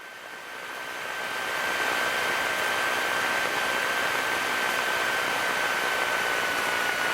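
Steady cabin noise of a Piper PA-28 Cherokee in flight, engine and airflow together, growing over about the first two seconds and then holding even, with a thin high whine that dips slightly in pitch near the end.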